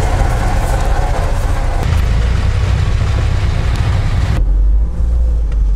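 Off-road car engines running close by in the mud, with a UAZ Patriot pulling up. About four seconds in, the sound cuts abruptly to a low, muffled engine drone heard from inside a car's cabin.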